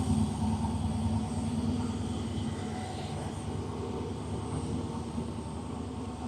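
A car engine running with a low rumble that fades gradually as the car moves away.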